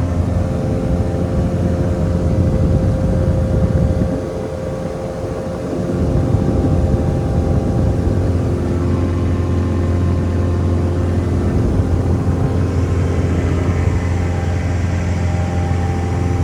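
Heavy truck's diesel engine running steadily under way, with a deep, even drone. About four seconds in it drops off for a couple of seconds, as when easing off the throttle for a gear change, then pulls again.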